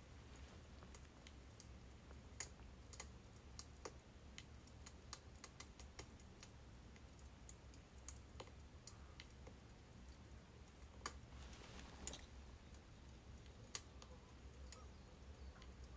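Birch logs burning in a fire, crackling with faint, irregular snaps and pops over a low steady hum.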